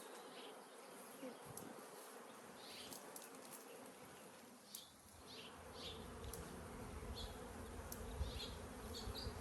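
Honey bees buzzing around an opened hive: a steady hum of many bees in flight. A low rumble joins about halfway through.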